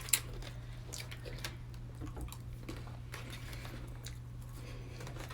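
Faint, scattered crunching and clicking of people chewing crackers, over a steady low hum.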